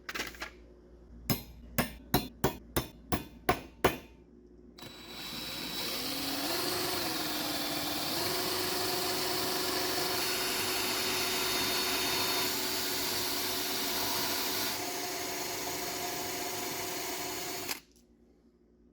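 A quick run of about nine hammer taps, roughly three a second. Then an electric power tool starts, its pitch rising as it comes up to speed, runs steadily for about thirteen seconds and is switched off.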